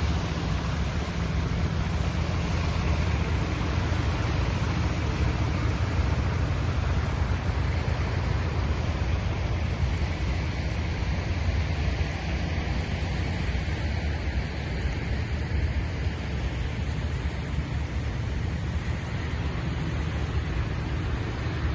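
Steady rushing noise with a strong low rumble, unchanging throughout.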